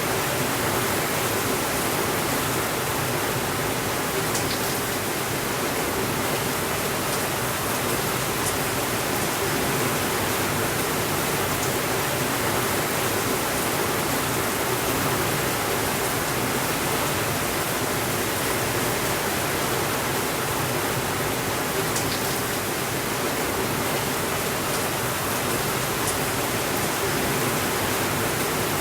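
Steady, even rainfall with no thunder, with a few faint light ticks here and there.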